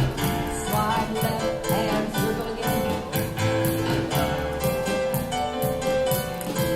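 Live contra dance band playing a tune with a steady, regular beat.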